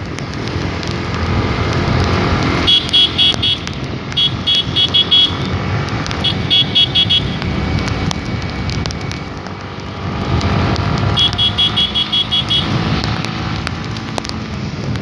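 Motorcycle running along a road in the rain, a steady engine and road-noise rumble, broken by four clusters of rapid, high-pitched beeps, the last and longest near the end.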